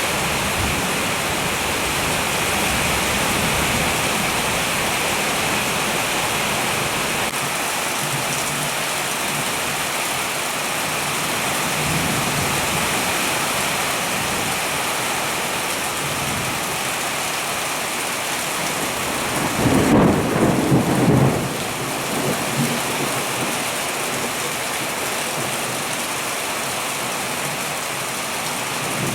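Heavy rain falling steadily in a thunderstorm, with a loud peal of thunder about two-thirds of the way through that lasts a second or two, and fainter rumbles of thunder before and just after it.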